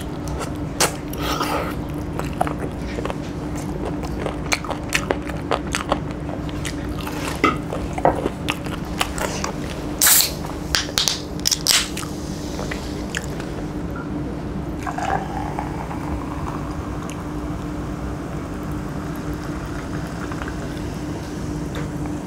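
Close-up eating sounds of chicken curry eaten by hand: chewing, biting and wet lip smacks, many short sharp clicks, over a steady low hum. About halfway through the smacking thins out and cola is poured into a glass, then fizzes.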